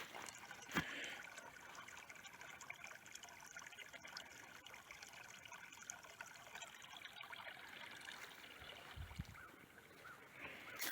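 Faint trickle of running water, with a sharp click about a second in and a brief low thud near the end.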